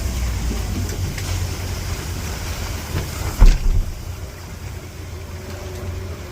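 Coast Guard boat under way: a steady low engine rumble with a hiss of wind and water. A single sharp thump comes about three and a half seconds in, and after it the rumble eases somewhat.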